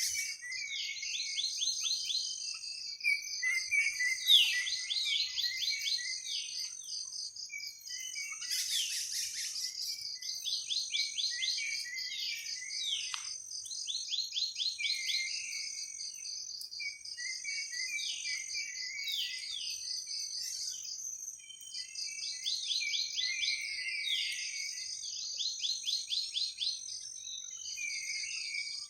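Forest ambience: a steady high-pitched insect trill under repeated bursts of bird chirping, each burst a quick run of falling notes, every few seconds. A short burst of noise comes about eight seconds in.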